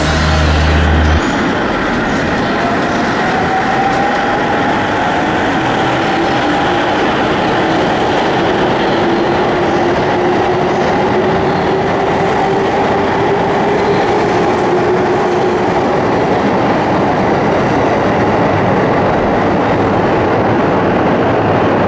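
JR Musashino Line electric commuter train pulling out of an underground station: steady rumble of wheels and running gear, with a faint motor whine that rises slowly in pitch as it gathers speed.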